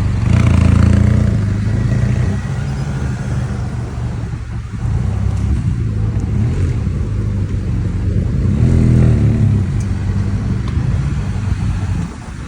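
Steady low rumble of wind buffeting the microphone of a moving bicycle, swelling now and then.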